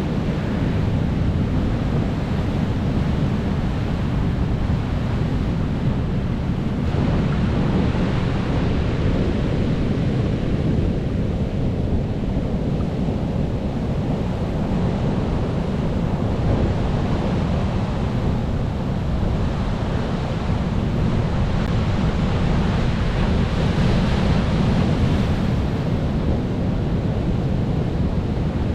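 Ocean waves washing onto the shore in a steady rush, swelling a little now and then, with some wind on the microphone.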